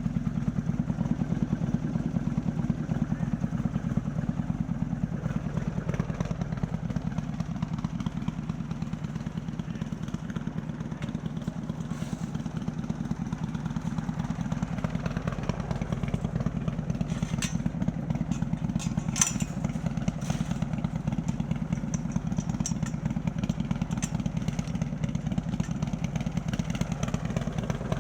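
Harley-Davidson Milwaukee-Eight V-twin, bored out to 130 cubic inches and breathing through a ThunderHeader exhaust, running steadily under way with a deep, rapid pulse. A few sharp clicks come through about two-thirds of the way in.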